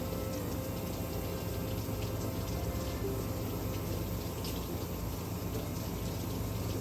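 Water spraying or running steadily, with a low steady hum underneath.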